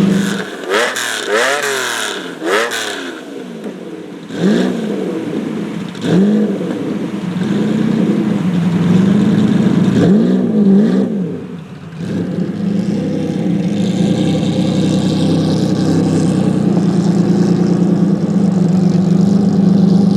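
Lamborghini Diablo GT's 6.0-litre V12 revved in a run of short, sharp throttle blips, each rising and falling quickly, through the first half. After a brief drop it settles into a steady, loud engine note.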